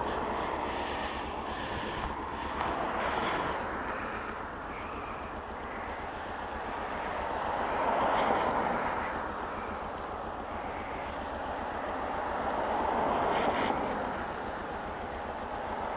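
Wind rushing over a helmet-mounted camera on a moving motorcycle, with road noise underneath; the rush swells twice, about halfway through and near the end.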